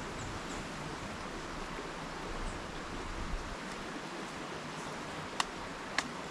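River water flowing in a steady rush, with two sharp clicks about half a second apart near the end.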